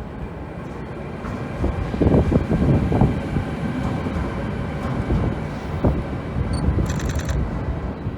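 A train rumbling along the track through the station, growing louder about two seconds in and staying loud, with a brief high squeal near the end.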